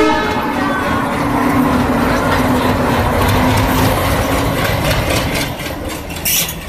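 Indian Railways diesel locomotive hauling a passenger train slowly past along the platform. It opens with the tail of a horn blast, then the engine's steady drone with wheel-on-rail rumble, and a short loud clank near the end as the coaches roll by.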